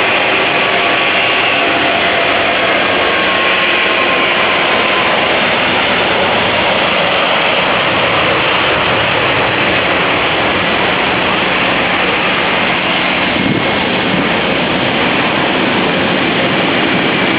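Airbus A380 jet engines running during takeoff: a loud, steady rush of noise with faint whining tones that drift slowly in pitch.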